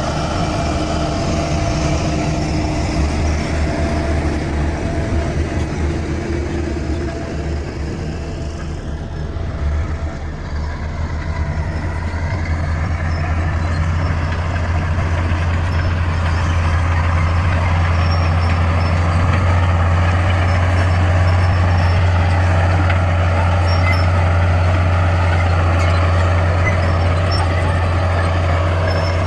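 Bulldozer's heavy diesel engine running with a steady low drone that eases briefly about a third of the way in, then holds steady.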